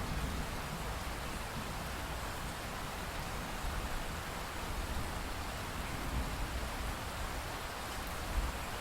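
Steady rainfall: an even, continuous hiss with a low rumble underneath.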